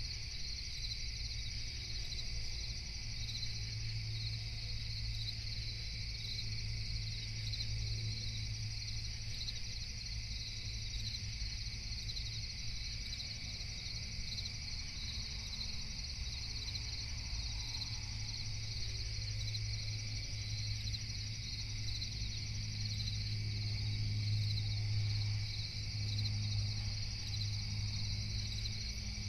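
Crickets and other insects trilling steadily in a continuous night chorus, over a steady low hum.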